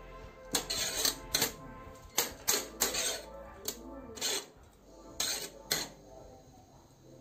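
A metal spoon clinking and scraping against a metal cooking pot as cooked rice is spread and levelled, about a dozen irregular clinks, with soft background music underneath.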